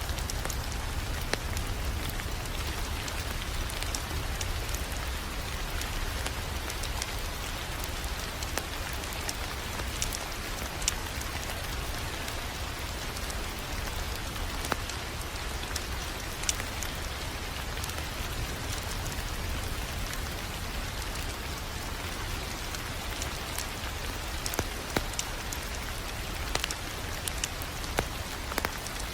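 Crackling wood fire: a steady hiss and low rumble with scattered sharp pops and crackles, a few louder ones standing out.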